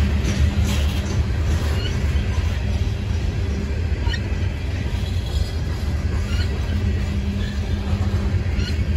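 CSX freight train's hopper cars rolling past: a steady low rumble of steel wheels on rail, with short high squeals scattered through it.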